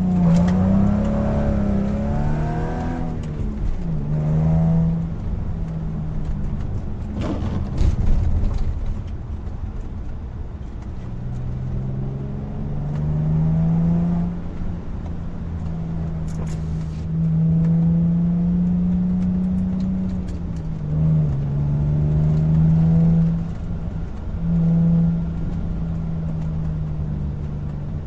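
Audi A4 B6 3.0 V6 engine driving through an exhaust with Remus mufflers, a custom H-pipe and deleted secondary cats, pulling through the gears: the engine note rises and drops several times, with steadier cruising between the pulls. A short knock comes about eight seconds in.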